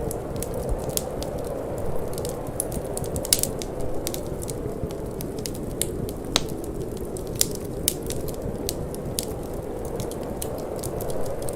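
Wood fire crackling in a fireplace: irregular sharp pops and snaps, a few louder than the rest, over a steady low rushing of flames and wind.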